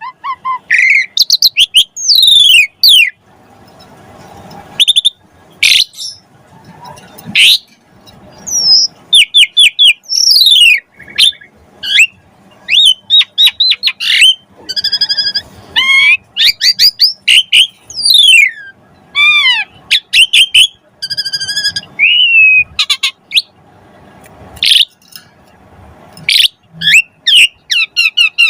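Asian pied starling (jalak suren) singing vigorously: a fast, varied stream of loud whistles, sweeping and falling notes, and buzzy rasping phrases, packed with mimicked notes.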